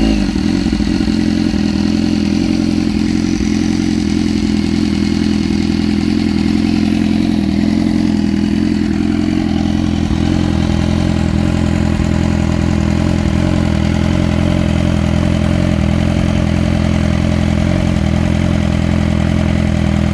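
2015 BMW S1000RR inline-four sport bike, fitted with an SC-Project aftermarket exhaust, settling from a blip of the throttle at the start into a steady idle.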